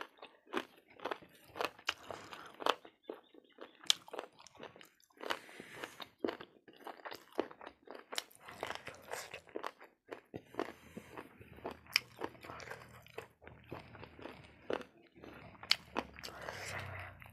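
A person chewing and biting crunchy food, with frequent sharp crunches at an uneven pace.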